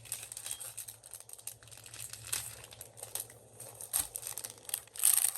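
Hands handling crinkly material, a run of rustles and small crackles that grows louder near the end.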